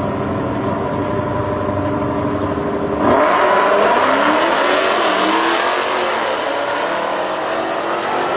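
Drag-racing cars holding revs at the start line, then launching hard about three seconds in: a sudden jump to full throttle, with engine pitch climbing and dropping back as they shift up through the gears.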